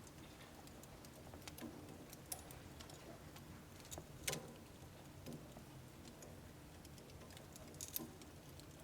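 Firewood burning in a household wood stove: faint, scattered crackles and pops, the loudest about four seconds in and again near the end.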